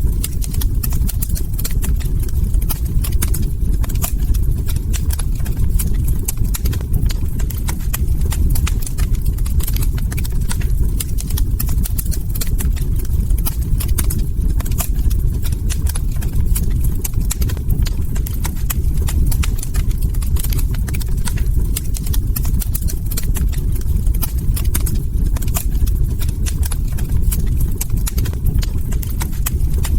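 Log fire crackling: many small, irregular pops and snaps over a steady low rumble.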